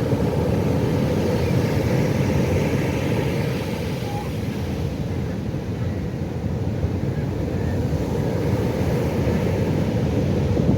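Pacific Ocean surf: a steady, low, dense wash of waves that eases slightly midway and builds again.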